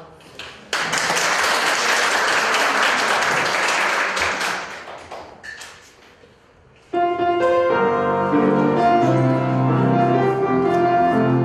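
Audience applauding for about four seconds, fading to a lull. About seven seconds in, a piano introduction begins with held chords and a melody.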